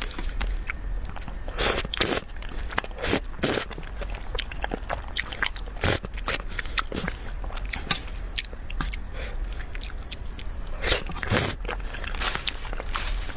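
Close-miked eating of malatang: steady chewing and biting with irregular moist clicks and smacks, louder bites about two seconds in and again near the end.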